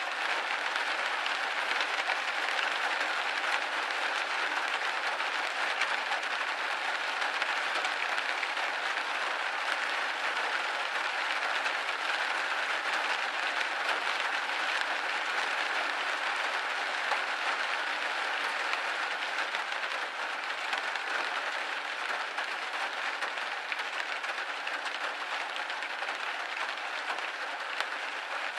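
Steady rain pattering on a window pane, a dense even crackle of drops with no let-up.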